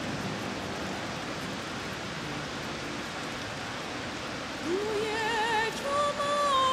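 Steady hiss of heavy rain. About two-thirds of the way in a singing voice with strong vibrato comes in, holding long notes, and by the end it is the loudest sound.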